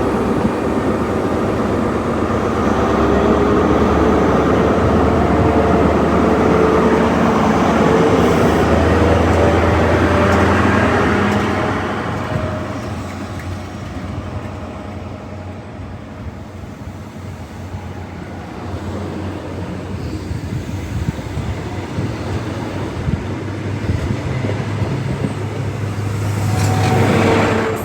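Diesel High Speed Train with Class 43 power cars going by. Its engines and wheels make a loud sustained rumble with a steady low engine hum for about twelve seconds, then the sound drops away. Another train's noise swells up shortly before the end.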